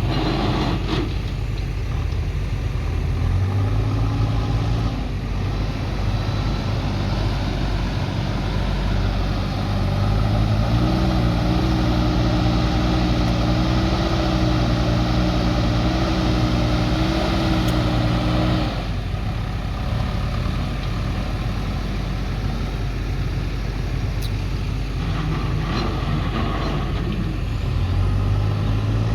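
Diesel engine of a JCB 3DX backhoe loader running while it works soil, revving up under load about ten seconds in, holding high for several seconds, then dropping back to a lower speed.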